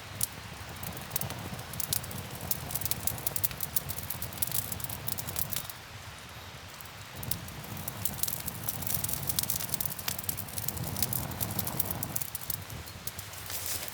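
Campfire wood crackling, with many small sharp pops and snaps; the crackle thins out for a moment about six seconds in.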